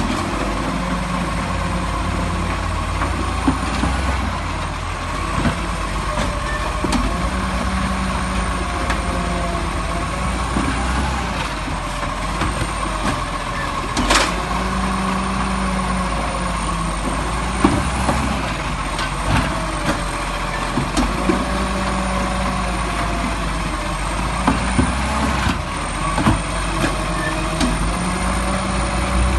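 Garbage truck running, its engine holding a steady rumble under a whine that rises and falls about every three to four seconds, with scattered knocks and one sharp bang about halfway through.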